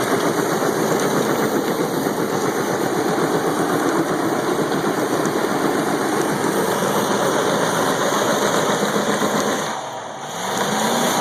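Pickup truck engine held at high revs in a burnout, running rough and loud; about ten seconds in the revs drop briefly, then climb again.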